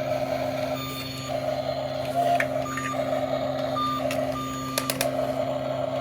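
Reversing-alarm style beeping that switches on and off roughly once a second over a steady electric hum, typical of a toy RC construction machine's sound effect.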